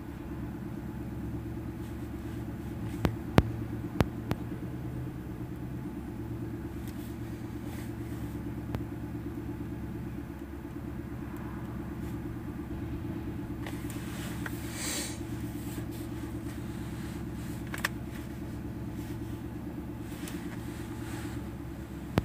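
Car engine idling steadily, heard from inside the cabin. A few sharp clicks come about three to four seconds in, and a brief high hiss about two-thirds of the way through.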